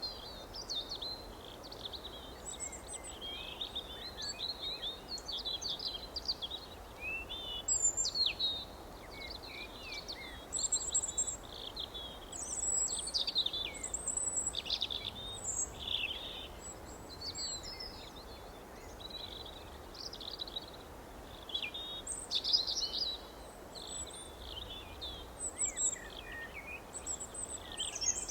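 Several small songbirds chirping and warbling in quick, overlapping short phrases, over a steady low background hiss.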